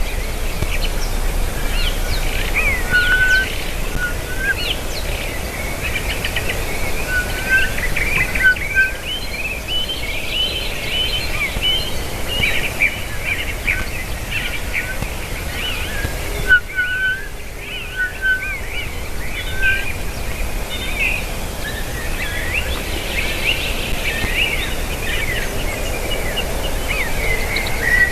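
Several birds calling and singing at once: dense short chirps and trills throughout, with a few repeated short lower notes now and then, over a steady low rumble.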